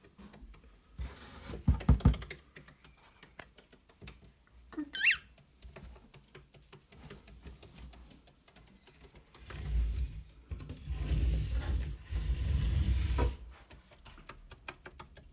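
Cockatiel's claws pattering and tapping on a hard floor as it scurries about. There is one short rising chirp about five seconds in, a few heavy thumps near the start, and a stretch of rustling and thumping from about ten to thirteen seconds.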